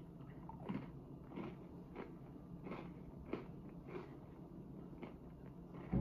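A person chewing a crunchy granola bar with the mouth closed: a steady run of soft crunches, roughly every half second or so. A dull low thump comes right at the end.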